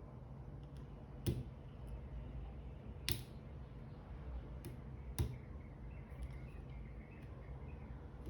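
A few sharp clicks and taps from handling a G-Shock watch and its band, three of them louder, about two seconds apart, over a low steady hum.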